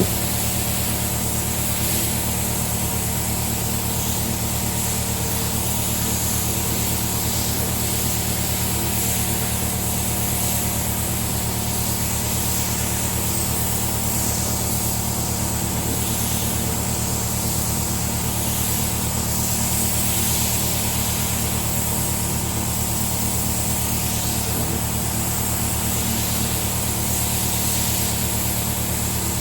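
Air compressor running steadily under the hiss of a compressed-air paint spray gun spraying.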